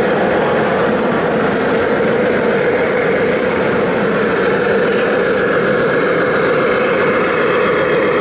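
Steady, unbroken engine-like running sound from a radio-controlled model vehicle or machine.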